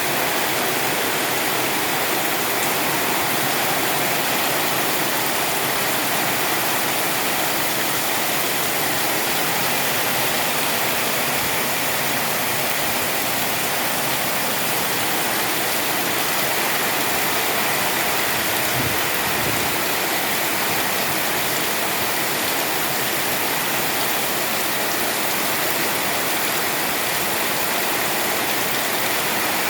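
Heavy tropical downpour: a dense, steady hiss of rain that does not let up, described as very hard.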